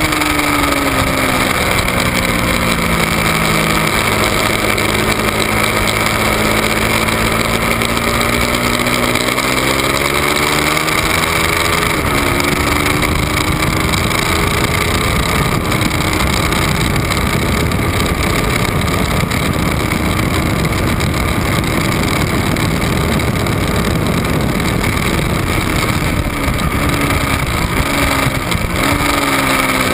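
Ducati 1199 Panigale's V-twin engine at racing speed, heard from a camera on the bike with heavy wind rush over the microphone. The engine note drops near the start, climbs through the revs around ten seconds in with a break for a gear change, is then largely buried under the wind, and drops again near the end.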